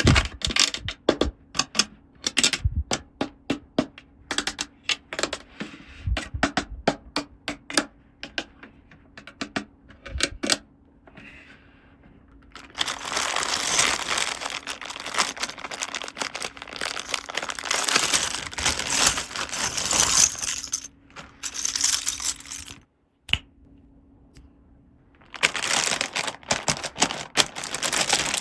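Toy pieces and packaging being handled: a run of quick light clicks and taps, then long stretches of continuous crinkling and rustling of packaging, with a short pause between them.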